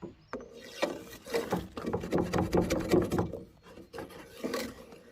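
Wooden dipstick scraping and rubbing inside the rusty metal filler tube of a gas tank as it is worked through the neck. It makes a run of quick rasping strokes with a faint squeak, then one more scrape near the end.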